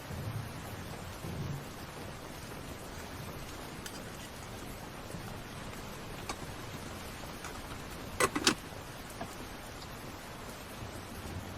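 Heavy rain falling with a steady hiss and scattered faint drop ticks. Two soft low thumps come in the first two seconds, and two sharp knocks about eight seconds in.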